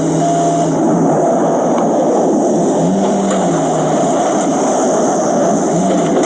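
A motor vehicle's engine running over heavy road and wind noise, its pitch rising and falling briefly a couple of times as it is driven.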